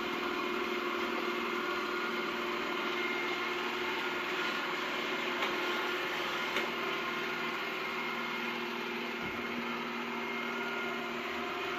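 Yeedi Vac robot vacuum cleaning: its suction fan and brushes running steadily, a constant hum with several held tones over a noisy rush.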